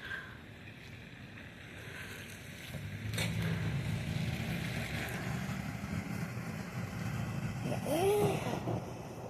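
Thunder rumbling low, building about three seconds in and lasting about six seconds. A brief high squeal rises and falls near the end.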